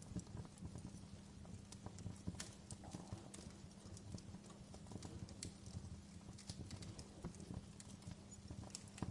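Wood fire in a fireplace crackling: irregular sharp pops and snaps, several a second at uneven spacing, over a faint steady low rumble.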